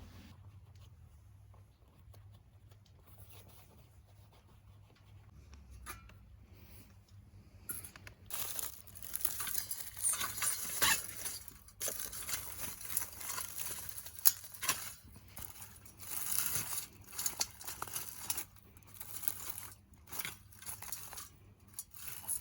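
Small wood fire crackling in a secondary-combustion wood stove: faint at first, then from about eight seconds in a dense run of crackles and pops over a hiss.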